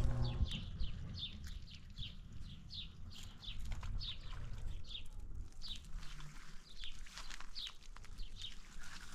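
A bird chirping over and over in short, high, falling notes, about three a second, with a few gaps near the end. A low hum cuts off just after the start, and a low rumble continues underneath.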